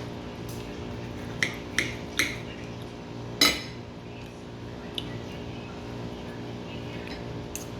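A fork clinking against a plate while eating pasta: several sharp clinks, spaced irregularly, the loudest about three and a half seconds in.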